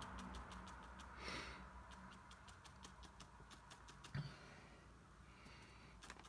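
Near silence: faint room tone with a quick, even ticking, a short breath-like hiss about a second in and a soft knock around four seconds.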